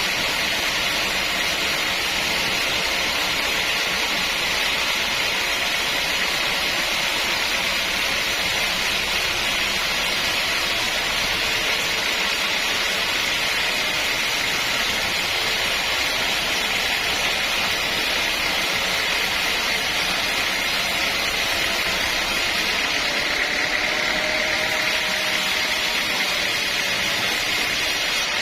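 Sawmill machinery running with a steady, even noise that does not let up. Near the end a faint tone rises slightly in pitch.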